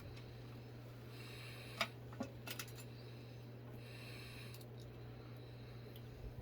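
Faint hand-work sounds: two light clicks about two seconds in and soft rustling or scraping, over a steady low electrical hum.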